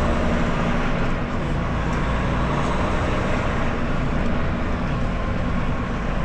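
Semi truck's diesel engine running steadily, with road and traffic noise.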